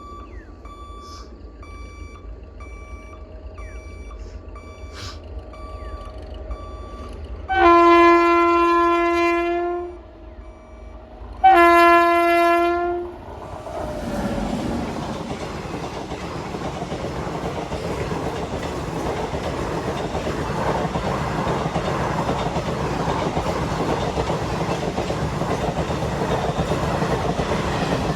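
A locomotive horn sounds two long blasts, the first about two seconds and the second shorter. An express train then runs through the level crossing with a steady rumble and clatter of wheels on rail joints, slowly growing louder.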